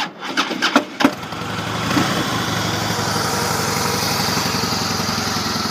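A few sharp clicks, then about a second in a 2007 Harley-Davidson Softail Custom's 96 cubic inch fuel-injected V-twin starts up and settles into a steady idle through the stock exhaust.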